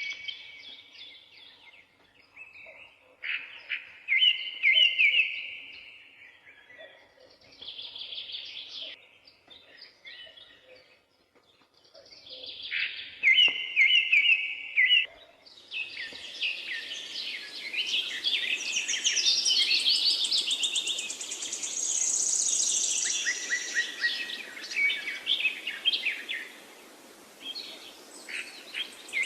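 Several forest songbirds singing: separate trilled and chirping phrases with short pauses between them. About halfway through, a denser chorus sets in over a steady hiss, with some very high thin phrases.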